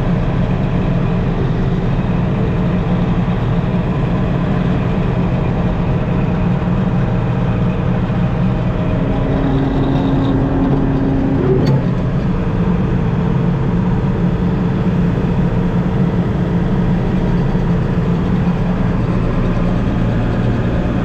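Older John Deere 8820 combine running steadily under harvesting load, heard from inside the cab: an even low engine and threshing drone. A brief extra hum joins in from about nine seconds, ending with a single click near twelve seconds.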